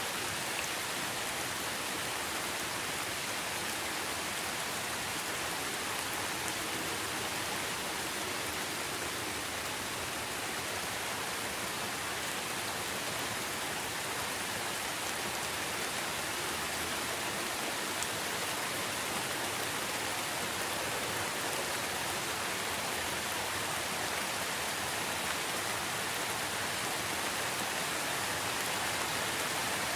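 Steady rainfall: an even hiss of many drops, without change or pause.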